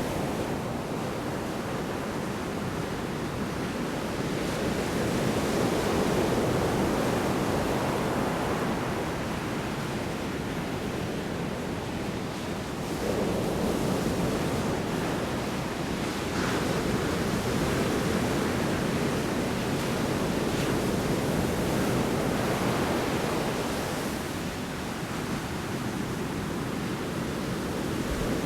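Large storm waves breaking on a shore: a continuous surf wash that swells and eases every few seconds, with wind.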